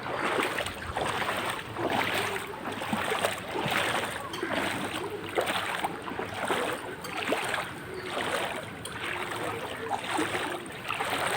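Wading strides through knee-deep floodwater: a rhythmic swish and slosh of water with each step, a little more than one a second.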